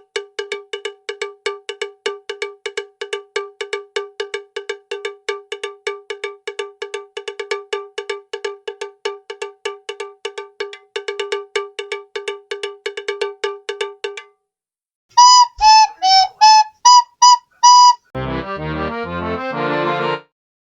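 Rapid, evenly repeated bell-like strikes on one pitch, about four a second, for about fourteen seconds. They are followed by seven short high beeps at slightly shifting pitches and then a dense buzzy electronic tone near the end.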